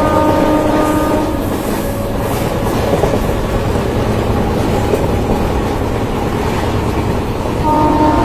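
Indian Railways WAG-9 electric locomotive accelerating. Its horn sounds as a steady chord that cuts off about a second in and sounds again near the end, over the continuous rumble and clatter of the train's wheels on the track.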